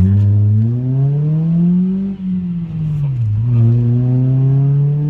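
2008 Mitsubishi Lancer GTS four-cylinder engine through its Tsudo aftermarket exhaust, pulling under acceleration with the pitch climbing steadily. About two seconds in the revs drop with a short dip in loudness, as at a gear change, then climb again.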